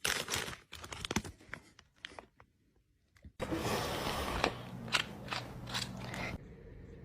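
Crunchy food being chewed up close, in quick crackling crunches, with a short pause about two and a half seconds in before the crunching starts again.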